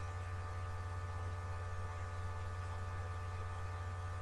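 Steady low electrical hum, with fainter steady higher tones above it.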